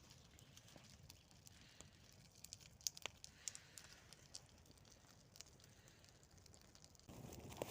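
Faint scattered snaps and crackles of a small campfire burning, over near silence. A louder rustling noise starts near the end.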